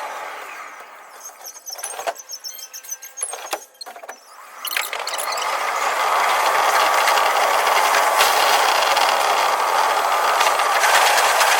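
Running noise of a Tokyu 5050 series electric train, heard from the driver's cab. It dies away over the first second or so and stays low for a few seconds with scattered clicks, then builds back up to a steady run.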